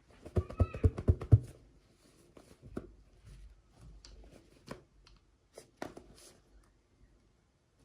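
Hands handling small plastic doll packaging and toy pieces: a quick run of sharp clicks and taps in the first second and a half, then scattered softer clicks and rustling.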